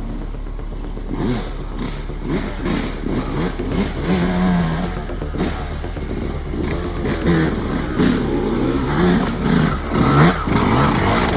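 Enduro motorcycle engine revving up and down again and again as it is ridden off-road, with rattles and knocks mixed in.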